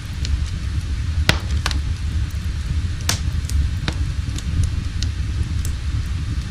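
Wood fire crackling: irregular sharp pops over a steady low rumble.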